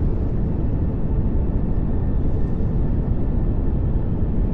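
Steady pink noise: an even, unchanging hiss and rumble, heaviest in the low end.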